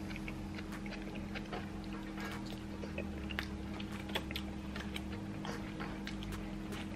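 A person chewing a mouthful of baked fish with lip-smacking, along with scattered light clicks and scrapes of a metal fork in an aluminium foil packet.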